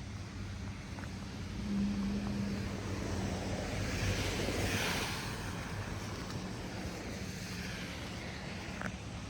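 A vehicle driving past on a slushy, snow-covered street: its tyre hiss swells to a peak about five seconds in and fades, over a steady low engine hum.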